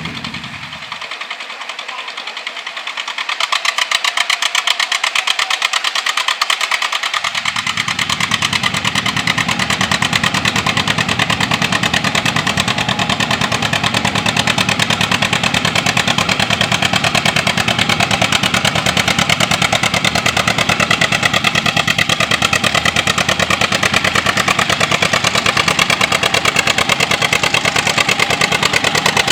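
Tractor engine running with a rapid, even firing beat, getting louder about three seconds in and then holding steady.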